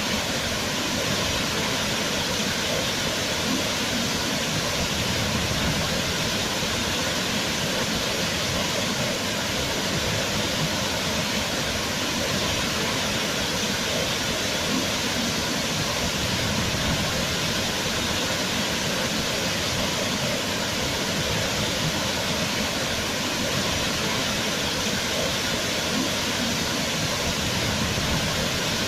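Waterfall: a steady, dense rush of falling water with no change in level.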